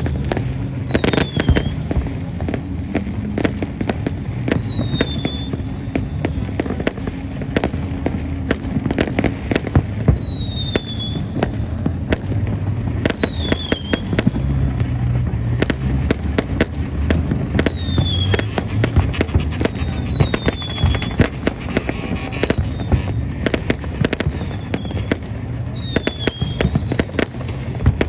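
Fireworks display going off continuously: many sharp bangs and crackles, with short falling whistles every few seconds.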